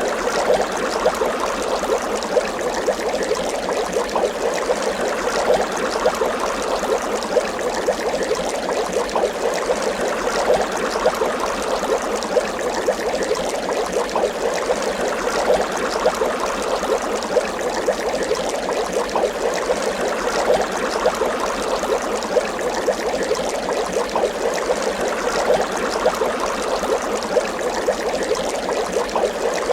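Water bubbling continuously, a dense steady stream of small bubbles popping and gurgling with no pauses.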